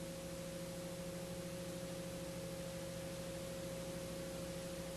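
Faint steady hum made of a few constant tones over a light hiss, unchanging throughout.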